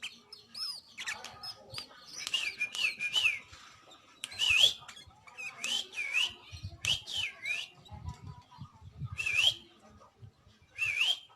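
Sooty-headed bulbul singing: a run of short, clear whistled phrases with dipping-and-rising notes, repeated about every second, with a few low thumps partway through.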